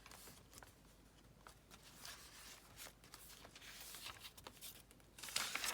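Paper rustling and light crinkling as the pages and paper inserts of a handmade journal are handled and turned, with a louder rustle near the end.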